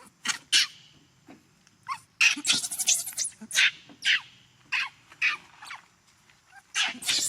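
Infant macaque crying: short, shrill calls, at first few, then several a second in a long run, with a brief lull before more calls near the end.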